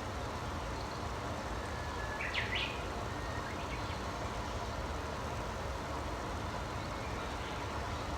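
A wild songbird gives a short burst of quick rising chirps about two seconds in, with a few fainter notes after. Underneath runs a steady low rushing noise.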